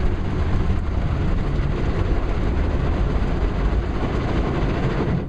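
Ryko SoftGloss Maxx automatic car wash working over the car, heard from inside the cabin: a loud, steady rush of washing with a deep rumble beneath. It cuts off suddenly at the very end as that wash stage stops.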